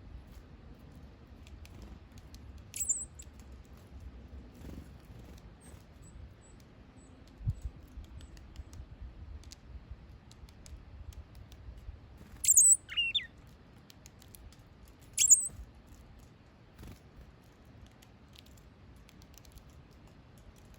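A small bird giving a few short, very high chirps, one of them sliding down in pitch, among faint scattered clicks.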